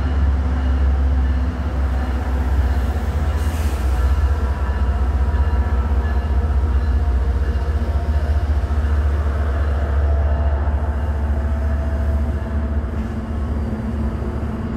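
MBTA commuter rail diesel locomotive hauling bi-level coaches past, its engine a steady low rumble as it works up a steep grade on wet, leaf-covered rails.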